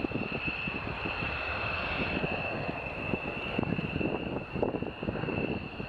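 F-16 fighter jet engine running, a steady high whine over a rough rumble.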